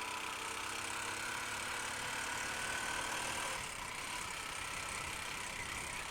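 Honda Unicorn single-cylinder motorcycle engine running on the move. Its pitch rises slightly and then eases off about three and a half seconds in, over a steady rush of noise.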